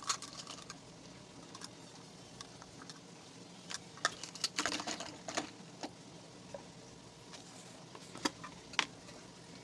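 Scattered light clicks and clatter of kitchen utensils and containers being handled, over a faint steady hum.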